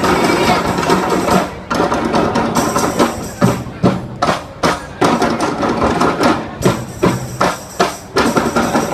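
Percussion ensemble playing in unison: dense playing at first, then a steady run of sharp strikes about two a second.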